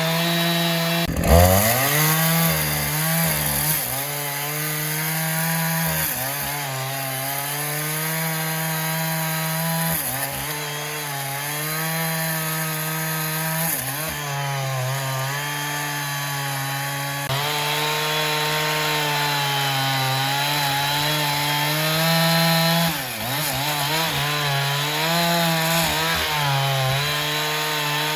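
Sawmill saw cutting through a black teak log: a steady, pitched machine drone whose pitch sags sharply about a second in and again near the end as the cut loads it, then recovers.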